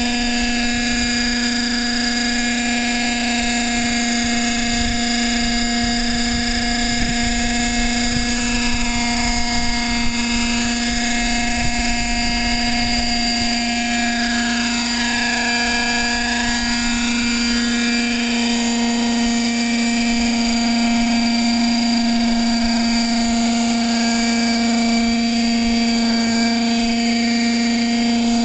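Radio-controlled model helicopter running steadily, its motor and rotors giving a constant whine with a strong low hum under it. About halfway through, some of the higher tones briefly dip in pitch and come back.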